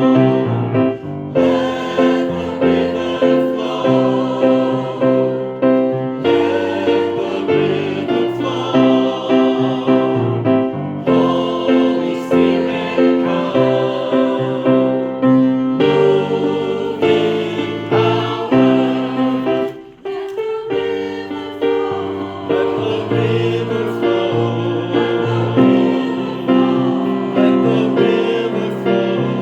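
Choir singing a worship song over keyboard accompaniment, with held chords and a steady beat. The sound dips briefly about twenty seconds in.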